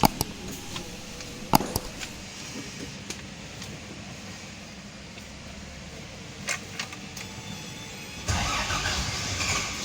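A few sharp clicks, then a Toyota Land Cruiser engine starting about eight seconds in and running.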